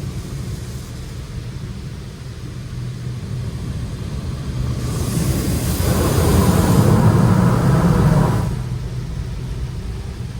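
Touch-free automated car wash working over the car, heard from inside the cabin. A steady low rumble runs under a rushing hiss that swells about halfway through, is loudest for a couple of seconds, then eases off.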